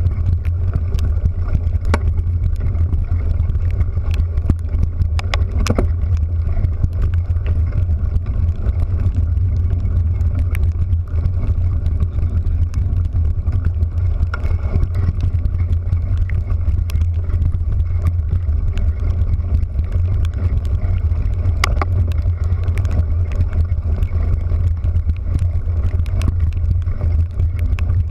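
A vehicle in motion, its engine and road or water noise making a steady low drone, with scattered sharp ticks.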